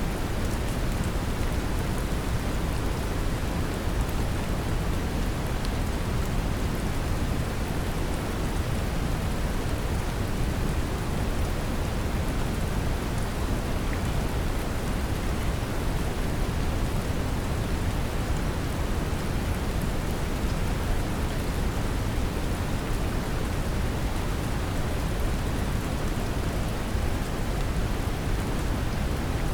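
Steady brown noise, a deep even rumbling hiss, mixed with gentle rain falling on a surface. It holds one level without change.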